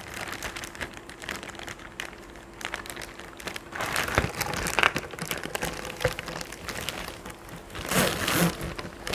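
Plastic packaging crinkling and rustling as the washing machine's accessory packet is torn open and handled, with louder bursts of rustling about halfway through and near the end.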